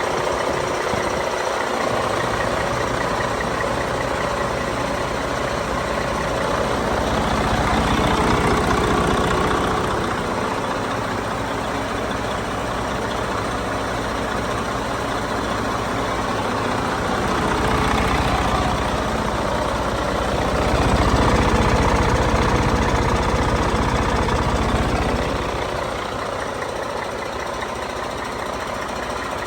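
2014 Detroit DD13 12.8-litre six-cylinder turbocharged diesel engine running on a test run. It is brought up in speed and eased back down three times, about 8 s, 18 s and 21–25 s in.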